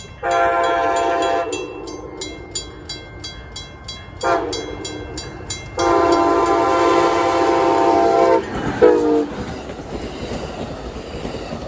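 An Amtrak Siemens SC-44 Charger locomotive's air horn sounding four blasts, a long one, a brief one about four seconds in, a longer one from about six seconds, and a short one right after. After that the passing train's wheels rumble and clack on the rails.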